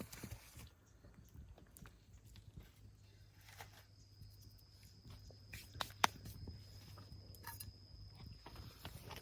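Faint scattered clicks and crackles over a low hum, with a steady high insect trill coming in about three seconds in. A sharper single click sounds about six seconds in.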